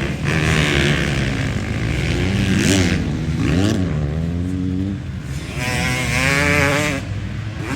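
Motocross dirt bike engines running on the track, their pitch climbing and falling as riders open and close the throttle, with one sharp rise and fall about three and a half seconds in and a strong rev-up from about five and a half to seven seconds.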